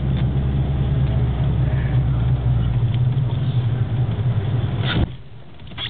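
Car engine running steadily with a low hum and a haze of tyre and snow noise, heard during snow drifting; the sound drops away abruptly about five seconds in.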